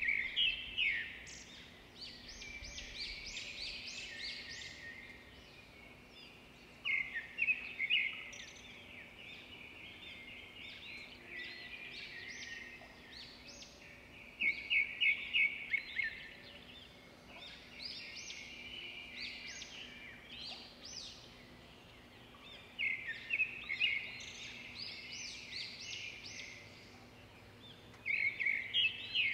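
Birds singing: five loud bouts of rapid, high chirping several seconds apart, with softer twittering in between.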